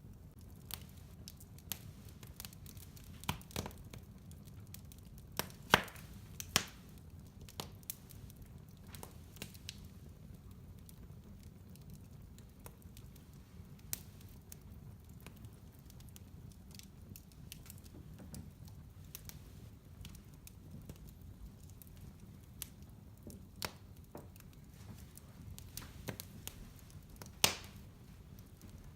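Wood fire crackling in a fireplace: scattered sharp pops and snaps over a low steady rumble, the loudest pops about six seconds in and again near the end.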